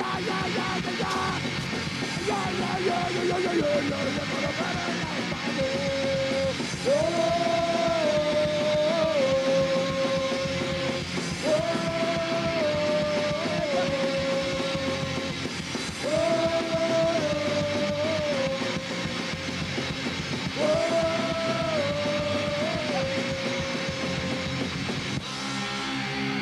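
Punk rock band playing an instrumental break with distorted guitars and drums. From about seven seconds in, a sustained lead guitar line plays the same short falling phrase four times, about every four and a half seconds.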